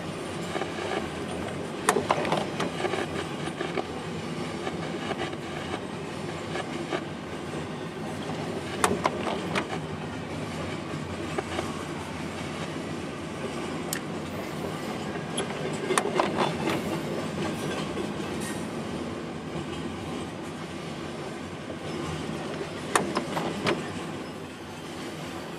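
Pan Am Railways train moving on the rails: a steady rumble broken by a few sharp knocks, about two seconds in, near nine, near sixteen and near twenty-three seconds.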